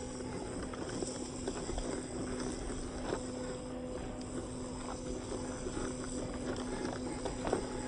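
Radio-controlled off-road car running over rocks: a steady motor whine with scattered clicks and knocks.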